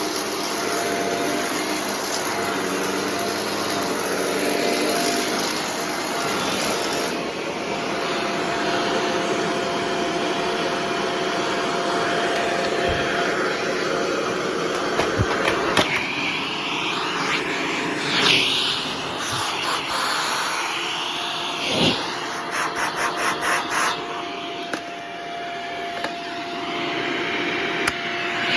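Shark Rotator Professional NV650 upright vacuum cleaner running steadily with a whine, its suction back now that the sock clog is cleared from the hose and wand. From about halfway through, knocks and a rapid rattling join the motor noise.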